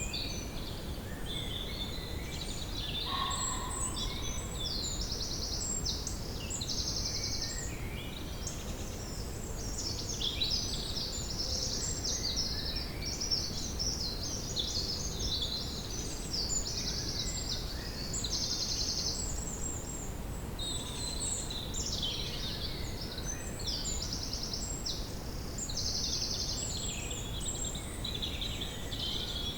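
Woodland ambience: several songbirds singing and calling at once, with short, fast high trills repeating every few seconds, over a steady low background rumble.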